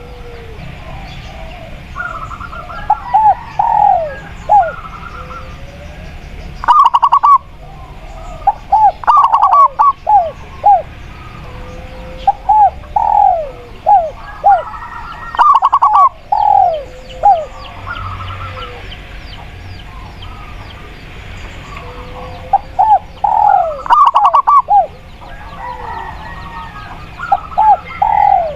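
Doves cooing in repeated short phrases of several curved notes each, a phrase every few seconds, over faint chirping from other small birds.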